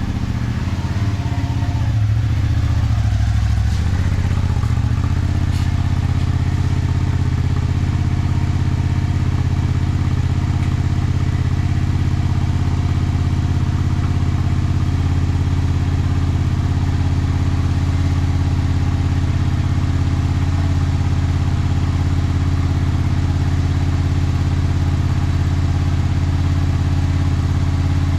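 Honda VTR250's V-twin engine idling through a Mugen aftermarket muffler, giving a steady, low exhaust note. The note is unsettled for the first few seconds, then holds even.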